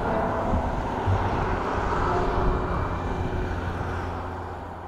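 N700-series Shinkansen train passing at high speed: a steady rushing noise with a low rumble that fades away as the train recedes.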